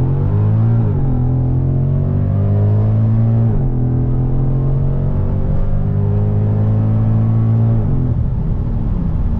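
Mercedes-Benz C63 AMG's 6.2-litre naturally aspirated M156 V8, tuned with headers and a straight-through exhaust, pulling hard under acceleration, heard from inside the cabin. The engine pitch climbs with two brief dips, about a second in and again around three and a half seconds, holds high, then falls away as the throttle is lifted near the end.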